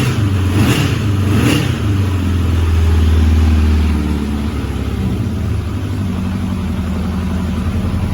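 1988 Honda CB750 Custom's air-cooled four-cylinder engine idling steadily from a cold start with the choke on, still warming up. It picks up a little about three seconds in, then settles back.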